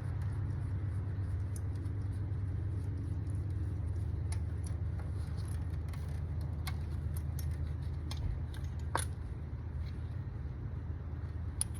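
Metal hand tools clicking and clinking in the engine bay during spark plug removal: scattered sharp clicks, one louder about nine seconds in. Under them runs a steady low mechanical hum.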